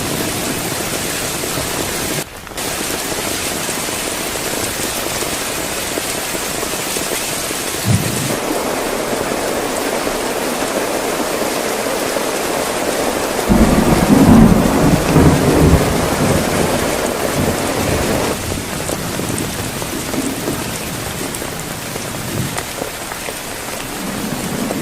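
Heavy rain falling steadily, with a rumble of thunder about halfway through that swells loud for a few seconds and then rolls away.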